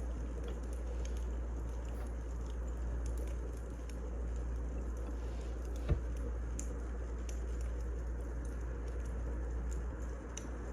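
Burning firewood crackling steadily, with scattered small pops and one sharper snap about six seconds in.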